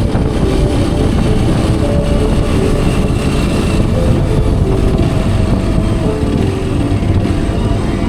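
Hero Xpulse 210's single-cylinder engine running steadily while riding, its note shifting slightly in pitch, over a constant rush of wind on the microphone.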